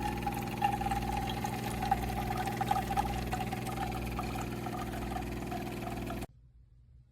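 De'Longhi TrueBrew drip coffee maker brewing: its pump hums steadily while coffee pours into the vessel. The sound stops suddenly about six seconds in.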